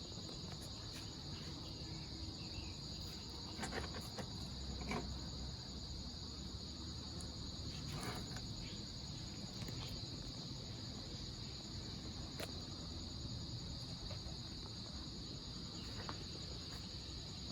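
Steady, high-pitched chirring of insects, with a few faint clicks and taps scattered through it.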